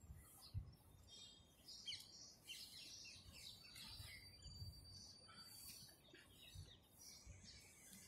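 Faint chirping of small birds: many short, high chirps and a thin whistled note or two, with a few soft low thuds in between.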